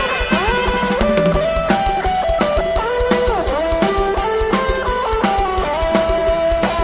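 Instrumental band music: a plucked, guitar-like lead melody with sliding, bent notes over a steady drum-kit beat.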